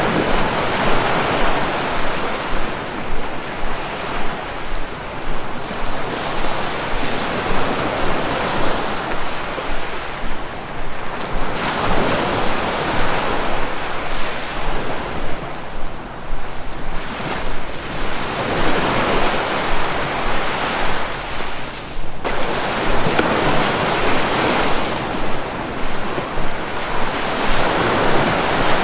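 Ocean surf: waves breaking and washing onto the shore, swelling and easing every several seconds.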